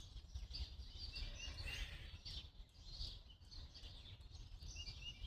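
Faint birds chirping, short repeated calls, over a steady low rumble.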